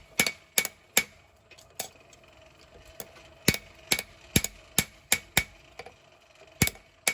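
Hammer blows on hot knife steel over an anvil, an uneven run of sharp ringing strikes as the blade is forged to shape. There are pauses of about a second between groups of blows.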